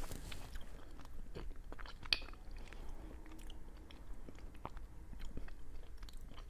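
Chewing of a mochi rice cake filled with fruit-flavoured bean paste, with scattered small mouth clicks and smacks.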